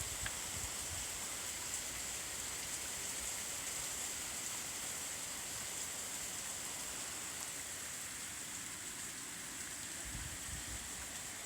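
Steady hiss of heavy rain falling during a hurricane, with low rumbles in the last second or so.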